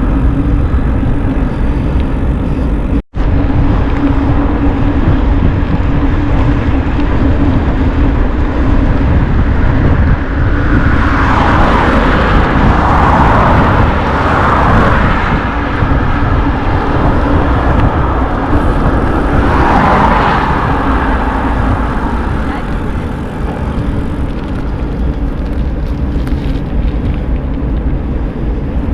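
Steady low rumble of wind buffeting the microphone during a bicycle ride, with two louder rushing swells partway through and a brief cut about three seconds in.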